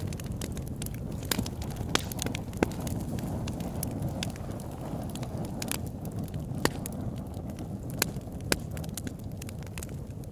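Large log burning in a converted oil-drum fire pit, crackling with frequent sharp pops, several louder than the rest, over a low steady rumble.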